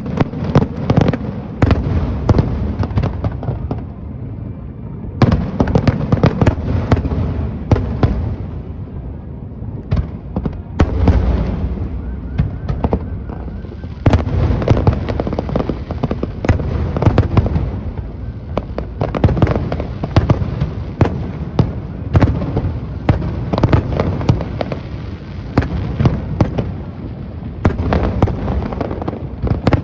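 Fireworks display: a dense run of aerial shell bursts, booms and crackling, with a few short lulls every several seconds.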